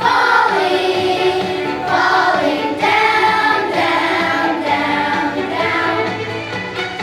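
A student choir singing a holiday song with instrumental accompaniment, in phrases a second or two long.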